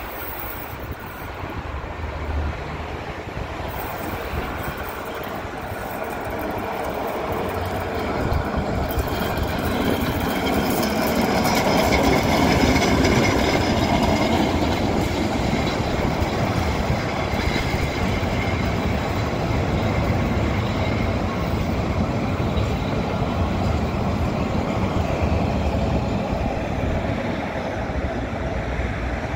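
A train running on rails, growing louder over the first dozen seconds and then holding steady, with a faint high whine over the running noise.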